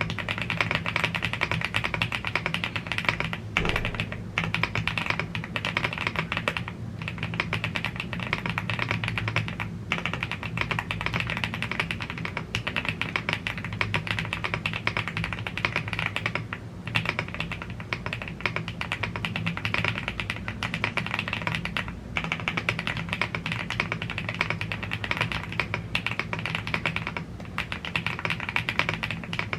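Fast, continuous typing on a YUNZII AL75 gasket-mounted aluminium mechanical keyboard with Blue Grey tactile switches and double-shot PBT Cherry-profile keycaps. There are a few short pauses between bursts of keystrokes.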